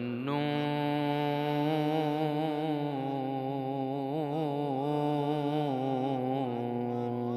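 A male reciter chanting an Islamic ibtihal, drawing out one long melismatic vowel whose pitch wavers and turns in ornaments, most busily in the middle.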